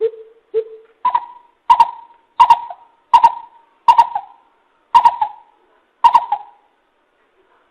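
Greater coucal calling: a series of about nine deep, hollow hooting notes, the first two lower and the rest stepping up in pitch, with the gaps between them lengthening toward the end.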